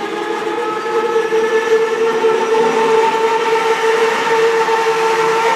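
Class 66 diesel locomotive moving slowly over a level crossing at the rear of a freight train, giving a steady, loud whine.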